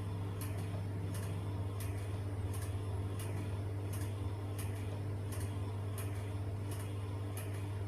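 Wet clicking and smacking of a mouth chewing food, about twice a second and slightly uneven, over a steady low electrical hum.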